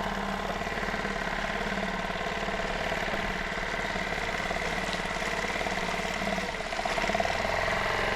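Dinghy's outboard motor running steadily with a fast, even engine beat, getting a little louder near the end.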